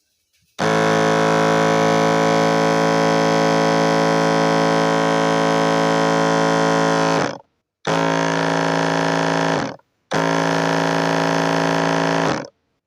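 Noisy DC pump motor of a double-motor battery knapsack sprayer running loudly. It is switched on for about seven seconds, then stopped and restarted in three shorter runs. This is the faulty one of the two motors, which has a lot of play in it.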